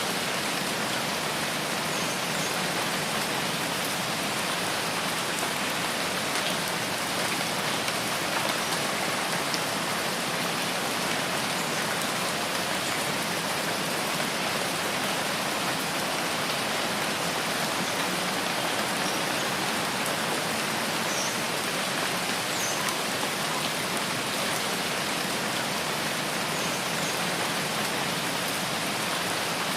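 Steady rain in a rainforest, an even, unbroken hiss of falling drops.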